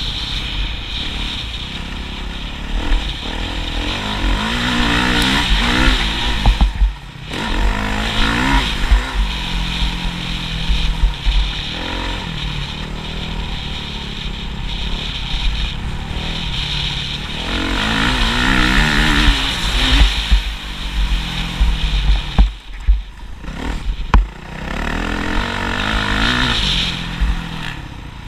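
Motocross motorcycle engine running hard around a track, revving up and down as the throttle opens and closes. The engine note drops away briefly about a quarter of the way in and again near the end.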